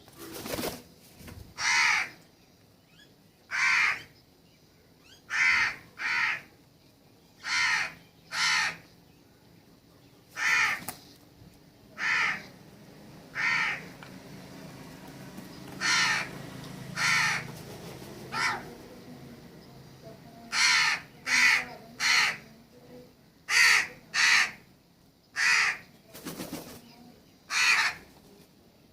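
A crow-like bird cawing over and over, about nineteen short calls spaced a second or two apart, often in quick pairs. A faint low hum runs under the calls in the middle.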